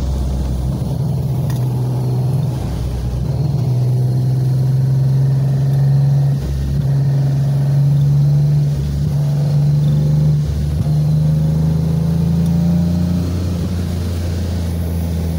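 Datsun 260Z's straight-six engine heard from inside the cabin, pulling hard with its pitch climbing, then dropping back several times as the driver shifts or lifts on a wet track.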